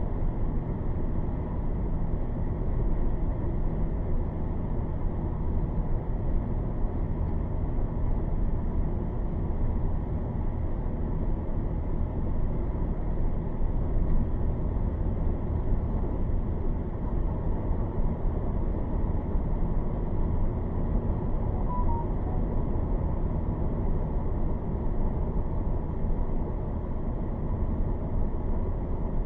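Steady low rushing noise of a strong thunderstorm's wind and rain, even throughout with no distinct thunderclap.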